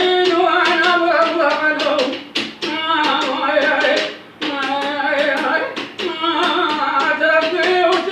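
An old man singing an Iraqi folk song: long held notes that waver in pitch, broken by short pauses about two and a half and four seconds in. Sharp hand taps run through it.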